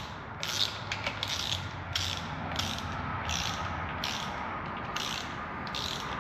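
Ratchet wrench being worked in repeated back-and-forth strokes, about ten clicking pulls at a steady pace, running a bolt down on a 3.5 EcoBoost exhaust manifold.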